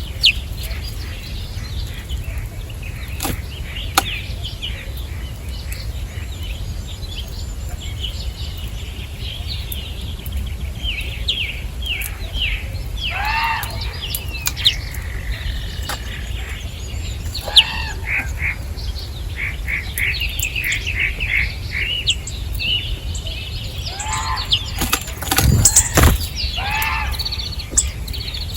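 Small wild birds chirping and calling at a feeder, many short chirps mixed with downward-sweeping calls, with a flurry of wing flaps and knocks about 25 seconds in. A steady low rumble runs underneath.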